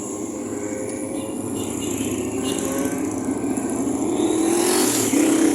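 Motorcycle engines running, with one revving up and rising in pitch near the end.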